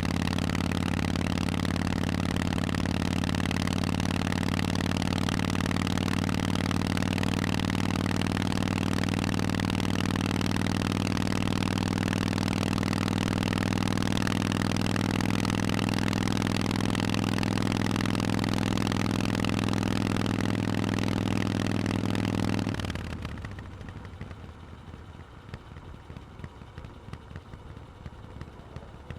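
Harley-Davidson Forty-Eight's air-cooled V-twin idling steadily through Vance & Hines exhausts, then shut off about 23 seconds in, leaving only faint background noise and small ticks.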